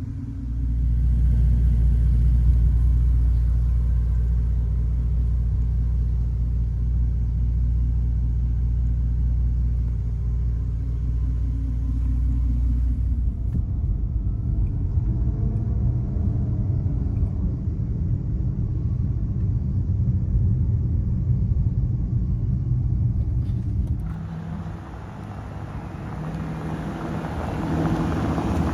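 The 6.0-litre twin-turbo W12 engine of a 2017 Bentley Continental GT Supersports running with a steady low rumble. Its note shifts about halfway through. Near the end the rumble gets quieter and a broad hiss comes in over it.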